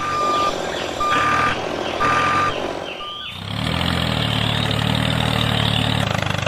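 Vehicle reversing alarm beeping four times, about once a second, then an engine running steadily from about three seconds in.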